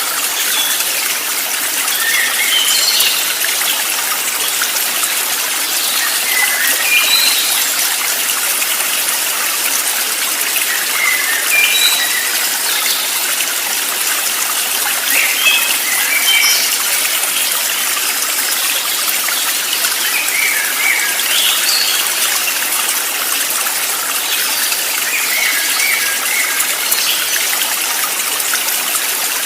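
Steady rush of a flowing stream, with short bird chirps breaking in every few seconds.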